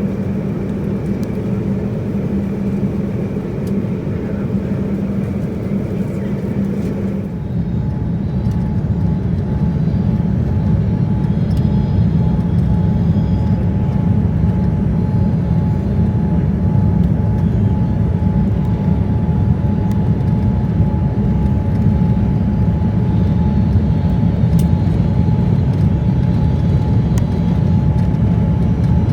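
Boeing 787-9 airliner's jet engines heard from inside the cabin, a steady loud rumble. About seven seconds in the sound changes and a steady whine joins the rumble.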